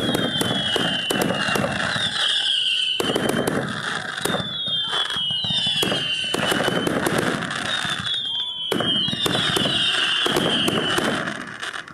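Fireworks going off in several rapid barrages of crackling bangs. High whistles slide down in pitch within each barrage. The barrages stop near the end.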